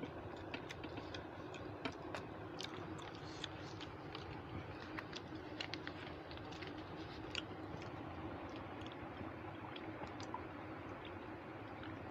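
Close-miked chewing and mouth sounds of a person eating rice and chicken curry by hand, with many small sharp clicks and smacks scattered throughout, over a steady low hum.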